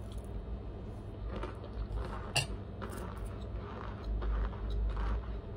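Person chewing a mouthful of Argo cornstarch chunks, a string of short, irregular crunches, with one sharp click of a metal spoon a little past halfway. The chunks are less crunchy than the eater likes.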